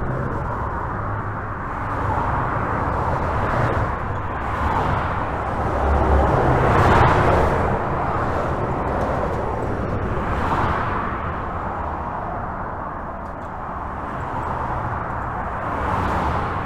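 Highway traffic heard from under a bridge: a continuous rush of tyres and engines with a deep rumble, swelling as individual vehicles pass, the loudest pass about halfway through.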